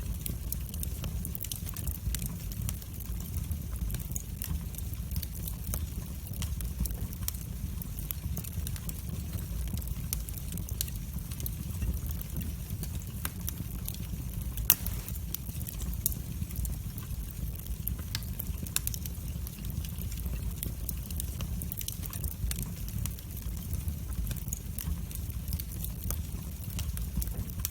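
Wood fire burning in a fireplace: a steady low rumble of flames with frequent small crackles and pops, one pop louder than the rest about halfway through.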